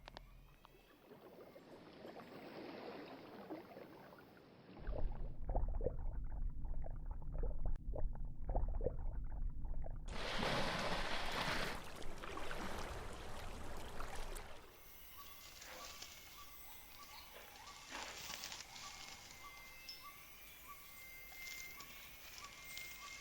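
Rainforest sounds in changing segments: a low rumble with splashing and sloshing water, then a loud rush of water, then a high insect drone with a short call repeating about once a second and a held whistling call near the end.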